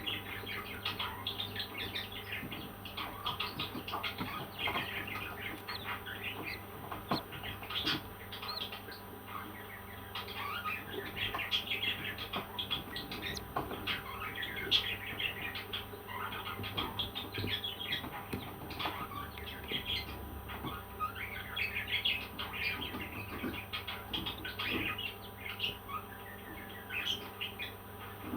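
Parrots chirping and squawking continuously, with many short calls overlapping, over a faint steady hum.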